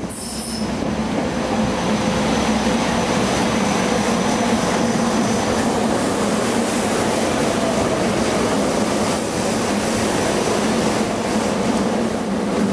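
SEPTA Silverliner IV electric multiple-unit train rolling past the platform: a steady electric hum over wheel and rail noise, growing louder over the first couple of seconds as the cars come alongside.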